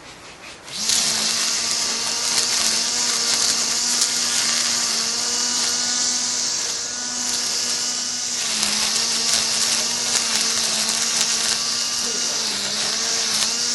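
Electric vibrating sander, rigged as a mini lawnmower, switched on about a second in and running with a steady whine and hiss. Its pitch dips briefly a few times.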